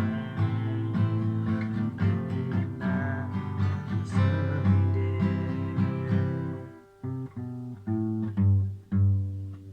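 Guitar-led rock band playing the closing bars of a song, ending on a few separately struck chords that each ring out before the music stops.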